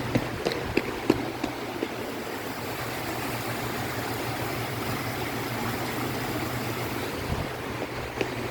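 Steady outdoor traffic noise with a low engine hum, and a few light knocks in the first second or so.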